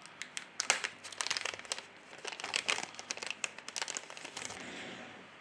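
Thin plastic film crinkling and crackling as it is handled, in dense bursts of sharp crackles, easing into a softer rustle near the end.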